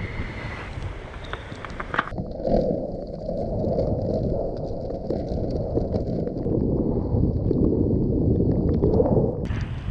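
Wind and rain noise on the microphone. About two seconds in, the sound turns muffled into a low rumble, and it opens up again near the end.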